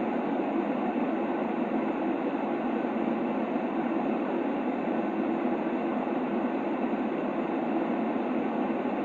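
Steady baby-sleep white noise: an unchanging rushing hiss, heaviest in the low-middle range, with no breaks or events.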